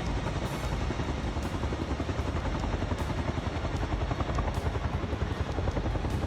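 Helicopter flying close, its rotor chopping rapidly and steadily.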